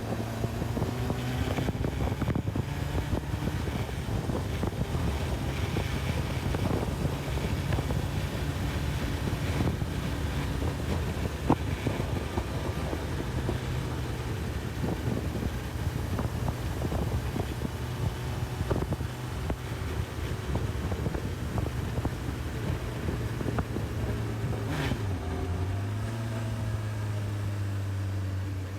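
Honda CB1000R inline-four engine running at a steady cruise, with wind rushing over the microphone. About three-quarters of the way through, the engine note falls as the bike slows.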